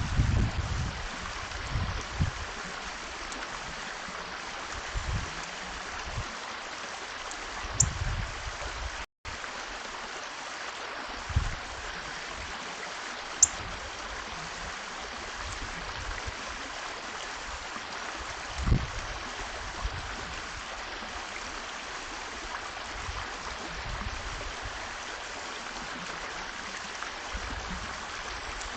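Steady rushing hiss of running water, with a few low buffets of wind on the microphone and a couple of brief high bird chirps.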